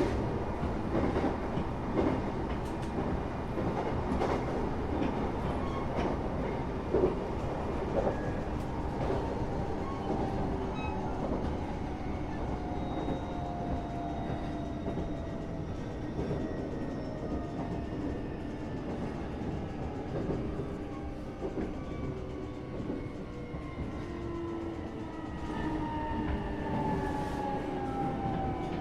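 Interior of a train running on the rails: a steady rumble with clicks from the wheels over the track. Over it, a whine of several tones falls slowly in pitch, dropping faster near the end.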